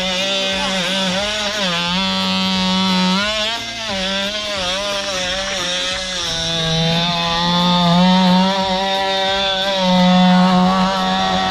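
Worx WX696 cordless oscillating multi-tool sawing through firewood: a steady, loud buzz whose pitch repeatedly sags and recovers as the blade loads up in the wood.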